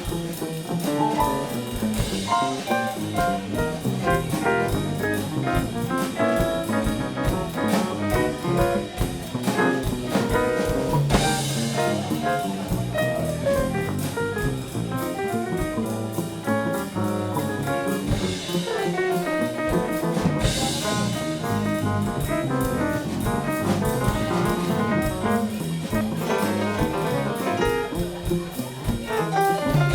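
Live band playing jazz, with drums keeping a steady beat and cymbal swells a few times.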